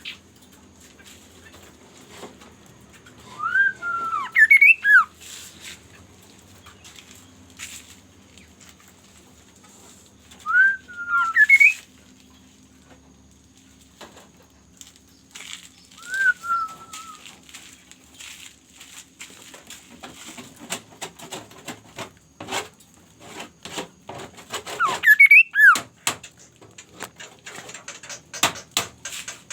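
A bird calling in short whistled phrases with quick rising and falling glides, four times, with scattered short clicks and taps in between that grow busier in the second half.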